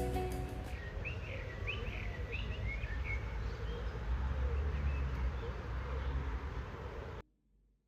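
Small birds chirping outdoors, a quick string of short calls over a steady low rumble of outdoor noise. All sound cuts off abruptly near the end.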